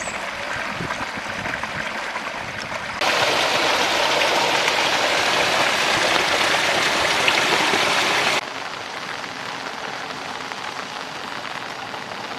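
Steady rushing water noise with no distinct events. It jumps louder abruptly about three seconds in and drops back just as abruptly a little past eight seconds.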